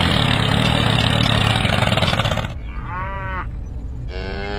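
A small motor runs steadily with a low hum and cuts off abruptly about two and a half seconds in. Two short wavering calls follow, the second a little longer.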